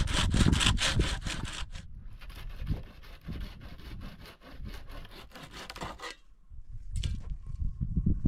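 Hand saw cutting wood in quick, even back-and-forth strokes. The strokes are loud for the first two seconds, then fainter, and stop about six seconds in.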